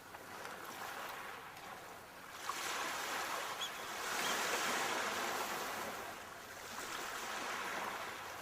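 Sea waves washing onto the shore, the surf's hiss swelling and fading in slow surges every few seconds.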